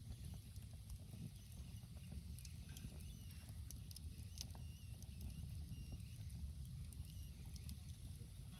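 Wood campfire crackling with scattered small pops over a steady low rumble.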